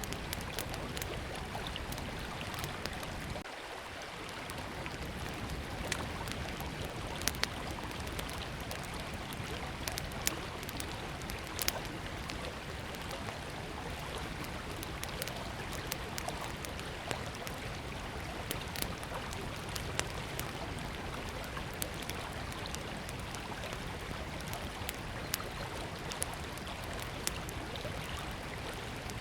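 Small wood campfire crackling, with irregular sharp pops and snaps, over the steady rush of a flowing river.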